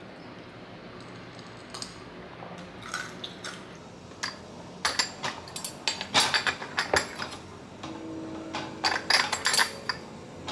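Dishes and utensils clinking and knocking together, with some liquid sounds. The clatter starts about halfway through as a quick run of sharp clinks.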